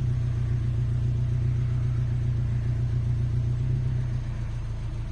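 Subaru Forester's flat-four boxer engine running at a steady speed through a handmade aftermarket full exhaust system, giving a deep, steady low note that holds one pitch throughout.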